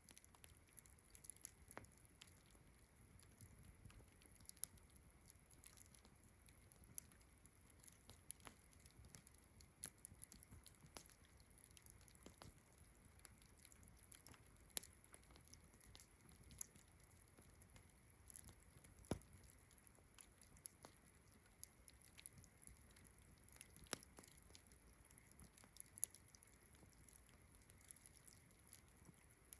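Faint campfire crackling: irregular sharp pops and snaps, a few louder than the rest, over a steady high chirring of crickets.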